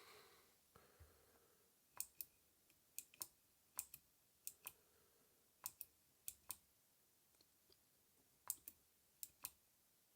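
Faint clicking from the small speaker of a Blackstar Fly 3 Mini guitar amp: a series of sharp clicks, mostly in pairs about a fifth of a second apart.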